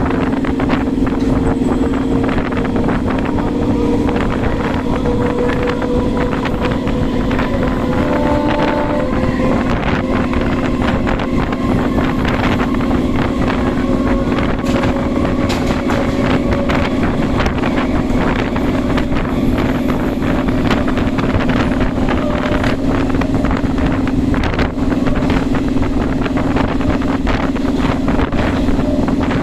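EMU electric local train running at high speed, with a steady drone and a fainter tone that rises slowly, rapid clicking and rattling of the wheels over the rails, and wind on the microphone.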